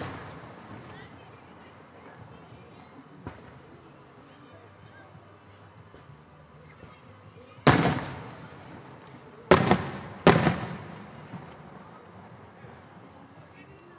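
Aerial firework shells bursting overhead: a faint pop early on, then three loud booms in the second half, the last two close together, each dying away in a rumbling echo. Insects chirp steadily and high in the background.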